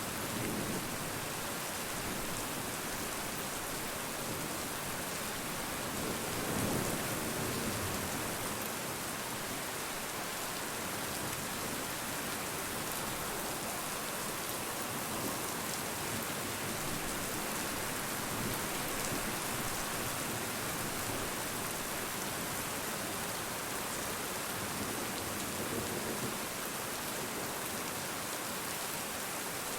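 Steady rain falling on a surface, a dense even hiss, with a soft low swell about seven seconds in and another near the end.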